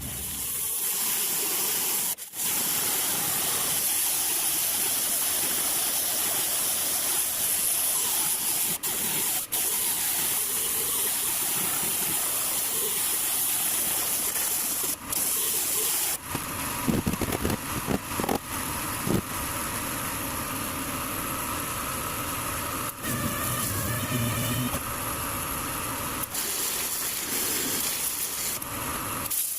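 Compressed-air tool hissing steadily, typical of body-shop air work such as a spray gun or air sander, broken by several sudden short cuts. A few low knocks come about 17 to 19 seconds in.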